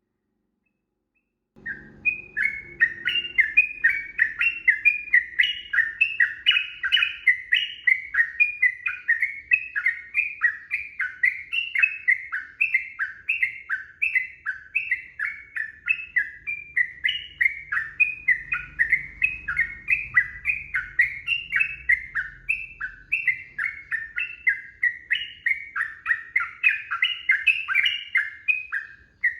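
Yellow-vented bulbul (trucukan) singing a long, unbroken run of quick chirping notes, several a second, starting about a second and a half in.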